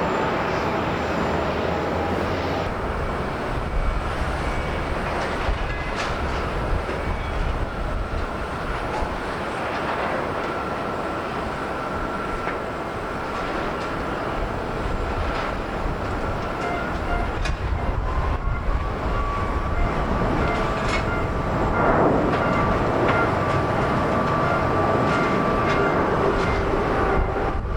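Jet airliner on approach to land, a Boeing 767-300ER: a steady, loud engine rumble with a thin whine that enters about two-thirds of the way through and grows slightly louder toward the end.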